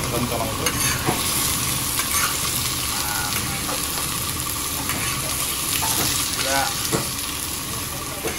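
Food sizzling in a large wok as it is stir-fried, with a metal spatula scraping and knocking against the pan several times.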